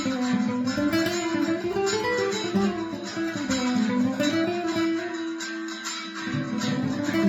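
Solo guitar improvisation in Spanish style: a steady run of quickly plucked notes, with a melody that climbs and falls again twice.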